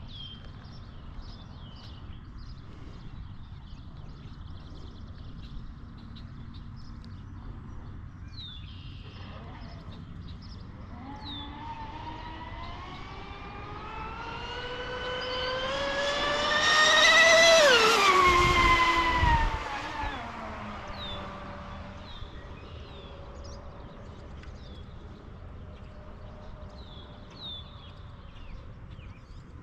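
A motor passing by: a pitched engine sound that grows louder and rises in pitch for several seconds, peaks a little past halfway, then drops sharply in pitch and fades away. Birds chirp throughout.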